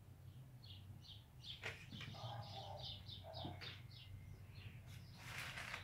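A bird chirping faintly in a quick run of short high chirps, about three or four a second, over a low steady hum. A brief rustle comes near the end.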